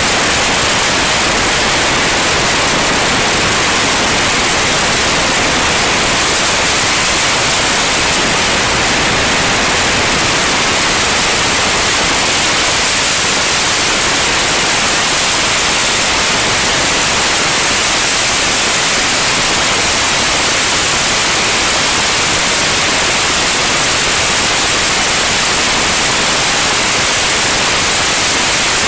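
Loud, steady hiss like static or white noise, unchanging throughout, with no tones or separate events in it.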